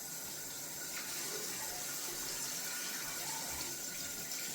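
Tap water running steadily into a sink, rinsing out a shaving bowl.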